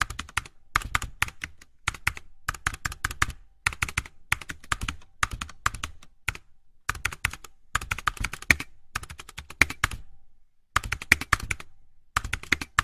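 Rapid keyboard typing: quick clicks in runs of about a second, broken by short gaps of complete silence.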